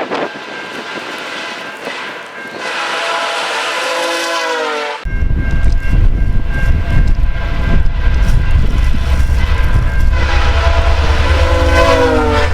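Multi-note air horn of a VIA Rail EMD F40PH-2D locomotive sounding a chord that drops in pitch as the train passes at track speed. About five seconds in, a loud low rumble of the passing train and wind on the microphone sets in suddenly. The horn sounds again near the end, again dropping in pitch as it passes.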